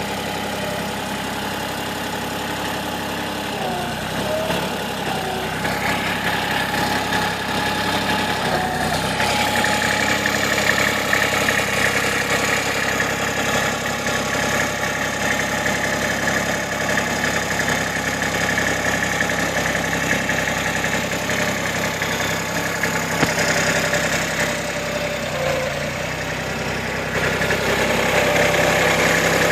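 Backhoe engine running steadily, growing louder a few seconds in and again near the end.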